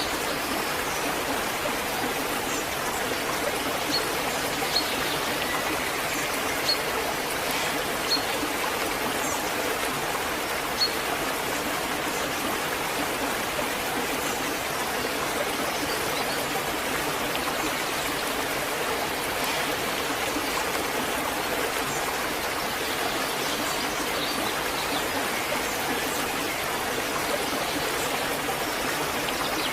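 Waterfall's steady rush of falling water, an even wash with no pauses, with a few brief high chirps or drips in the first third.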